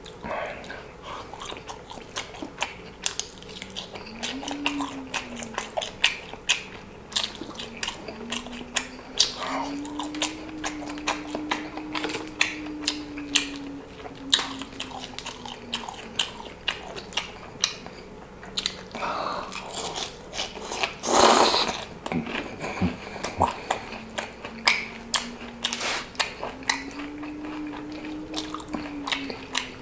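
A person chewing and biting food close to the microphone: a steady run of wet mouth clicks and smacks. One louder, noisier crunch or slurp comes about two-thirds of the way through, over a faint low tone that rises and falls in pitch.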